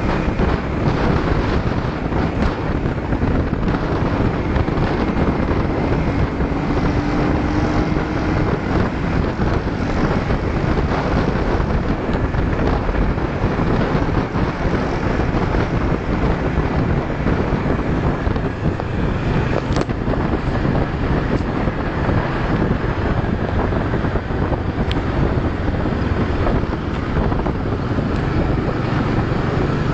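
Motor scooters riding on the road, engines running steadily under heavy wind noise on the microphone.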